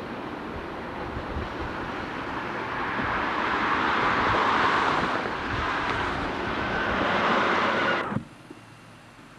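Freight train rolling past, a steady rush of wheel and rail noise that builds and then cuts off abruptly about eight seconds in.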